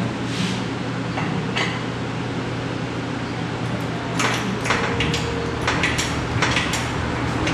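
Metal clanks and rattles of an engine hoist's chain and hooks being fastened to a car engine: a quick run of sharp knocks in the second half, over a steady low hum.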